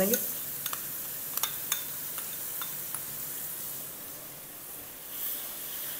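Garlic paste sizzling in hot ghee with whole spices, a steady frying hiss, with a few sharp clicks of a spoon against the pot in the first couple of seconds.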